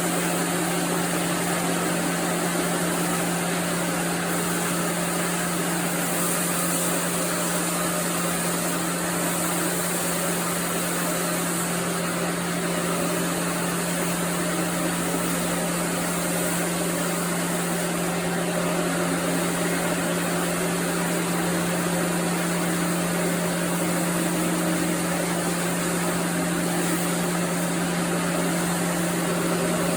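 Sawmill machinery running steadily: a constant mechanical hum with a strong low drone over a wide even noise, unchanging throughout.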